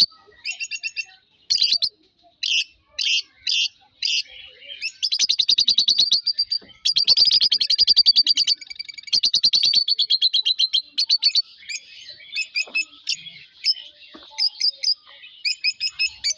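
Pet songbird singing: short bursts of rapid high chirps alternating with longer fast trills lasting a second or two.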